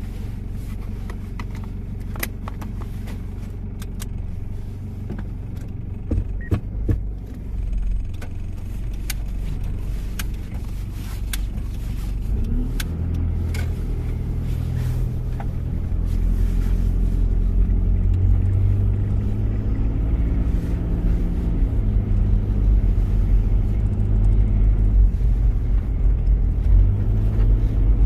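1993 Toyota Prado's diesel engine running while driving, with scattered clicks and knocks in the first part and the engine getting louder about halfway through.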